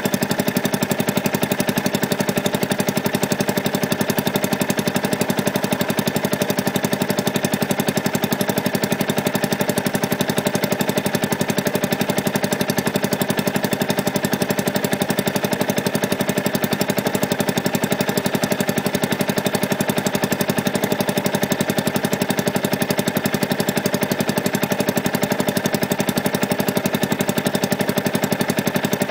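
Yamaha YZF-R125's single-cylinder four-stroke engine idling steadily, a fast even chugging that neither rises nor falls.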